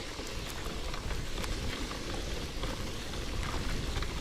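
1980 KhVZ bicycle riding over wet dirt and grass: a steady hiss and rumble of tyres, with scattered clicks and crunches from the chain and drivetrain. The rider puts the drivetrain crunching down to wet grass and a badly cross-chained chain.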